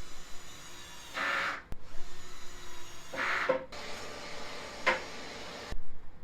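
Workshop sounds from fitting drawer slides into a cabinet: short rasping, hissing bursts about every two seconds and a sharp click about five seconds in. The sound changes abruptly several times, as at cuts between clips.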